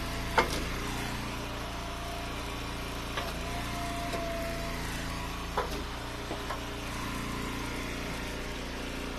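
Engine of an Eastonmade Ultra hydraulic wood splitter running steadily, with a higher whine for about a second and a half in the middle, and sharp knocks and cracks of ash rounds being split and handled, the loudest about half a second in.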